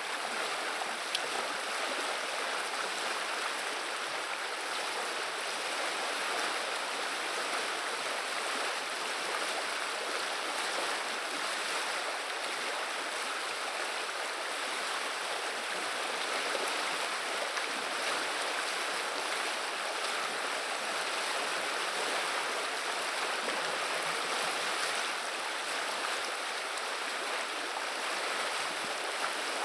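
River water running and babbling steadily, an even rushing sound with no pauses.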